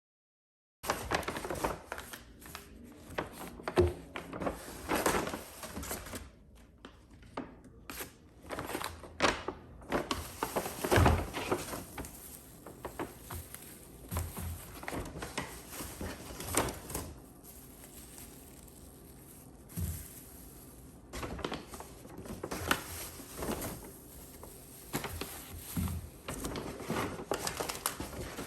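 Household handling sounds: irregular light knocks, clicks and rustling, as of objects being picked up, set down and moved about. A few heavier thuds stand out, one about eleven seconds in.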